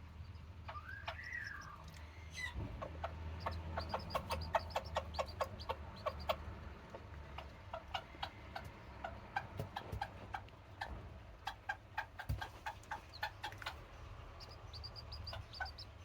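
Serama bantam hen clucking in fast runs of short clucks, calling her chicks to food, with one drawn-out rising-and-falling call about a second in.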